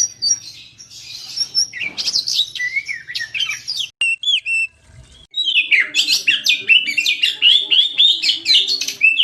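Oriental magpie-robin (kacer) singing a fast, varied string of whistles and chirps. The song breaks off for about a second around four seconds in, then comes back as a denser, louder run of rapid phrases.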